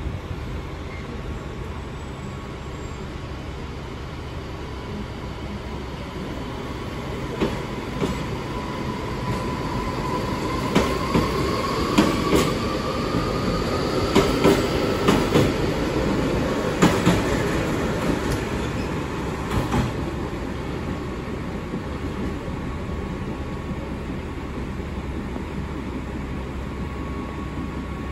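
JR Hokkaido 733 series electric train pulling away from the platform. A whine rises in pitch as it accelerates, and its wheels click sharply over rail joints as the cars pass, loudest about halfway through. The sound then fades as the train leaves.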